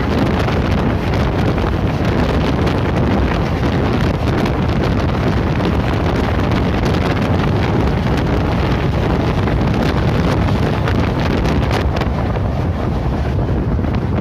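Train running at speed on the track, a steady loud rumble with heavy wind buffeting on the microphone.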